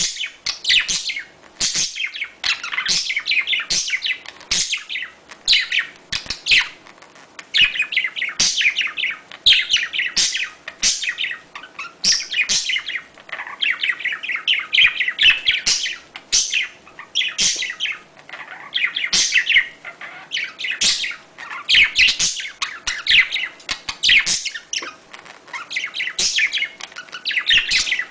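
Budgerigars chattering, with rapid chirps and warbles overlapping without a break: the breeding-season chatter of budgies.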